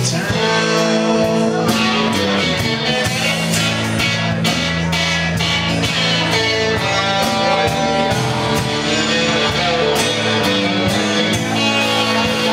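Live rock-blues band playing an instrumental passage: guitar over a steady drum kit beat.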